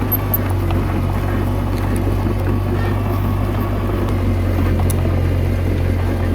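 Komatsu D21A bulldozer's diesel engine running steadily under load, a constant low drone.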